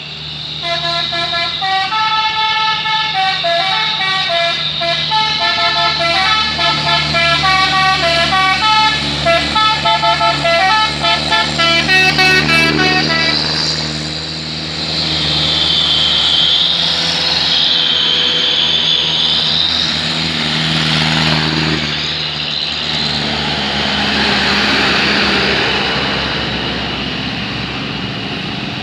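A truck's multi-tone musical horn playing a stepping melody for about the first thirteen seconds over a running truck engine. After that, engine and road noise with a high wavering whine.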